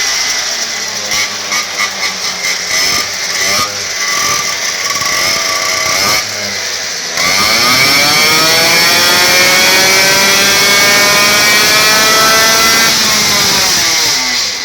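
MBK two-stroke moped engine revving. It is blipped several times in quick succession, then about halfway through it winds up in one long rising rev, holds high, and eases off near the end.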